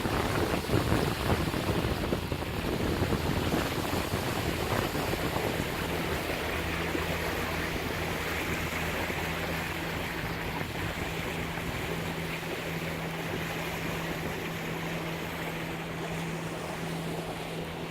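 Water rushing along the hull of a Lagoon 42 catamaran under engine power, with wind buffeting the microphone, gustier in the first few seconds. A steady engine hum runs underneath and comes through more clearly after about six seconds.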